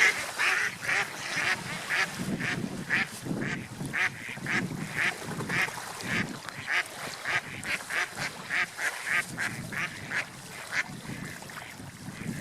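Ducks quacking, a rapid run of short calls at about two or three a second that thins out near the end.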